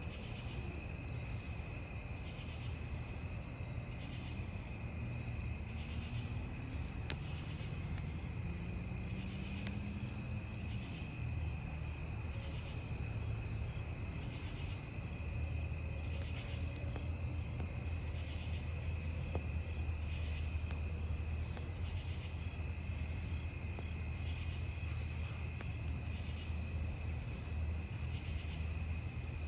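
Crickets chirping steadily, with short bursts of higher chirping every second or so, over the low rumble of a campfire burning; a faint pop about seven seconds in.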